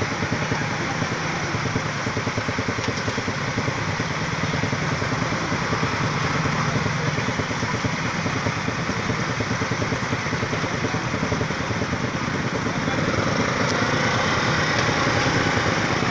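Small motorcycle engine idling steadily with a fast, even putter, over general street-traffic noise.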